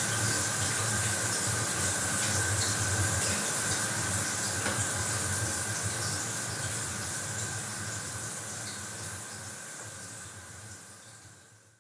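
Bathroom shower running, a steady hiss of water spray, fading out gradually over the second half into silence.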